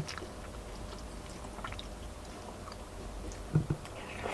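A person chewing food close to the microphone, with a few small clicks and two short knocks about three and a half seconds in from a metal fork against the dish. A louder burst of noise comes at the very end as a forkful of spaghetti is taken into the mouth.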